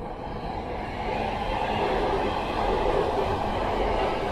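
JR East E235 series Yamanote Line electric commuter train running past on the tracks below, the noise of its wheels on the rails growing louder over the first two seconds and then holding steady.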